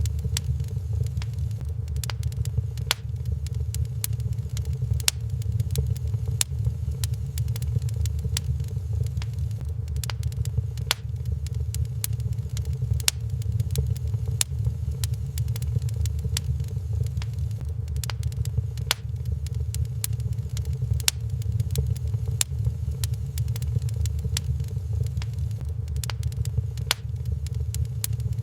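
Wood fire crackling in a fireplace, with irregular sharp pops and snaps several times a second over a steady low rumble.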